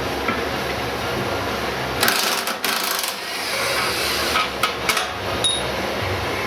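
Metal hand tools clanking and striking on the car: a quick cluster of sharp metallic knocks about two seconds in, then a few single clanks, the last ringing briefly. A steady shop hum runs underneath.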